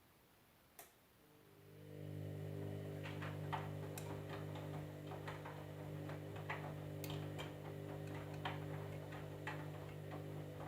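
Washing machine: a single click, then a steady electric motor hum that fades in about a second and a half in. Irregular sharp ticks sound over the hum, roughly once a second.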